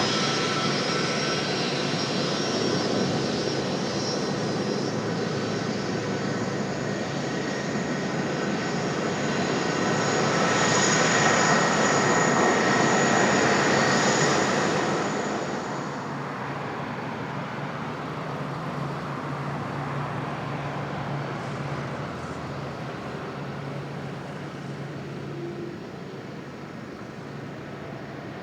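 Jet airliner passing, its engines a broad rush with high whining tones; the sound swells to its loudest about halfway through, then drops off quickly and fades away.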